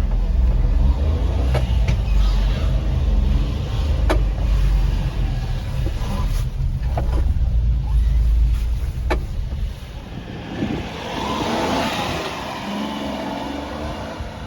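A Honda Acty mini truck's small three-cylinder engine running with a deep, steady rumble and a few sharp clicks and knocks. About ten seconds in the rumble drops away and a brief hiss rises and fades.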